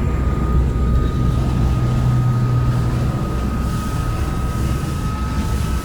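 Thames Clipper river boat's engines running at speed: a loud steady low rumble with a thin steady whine above it.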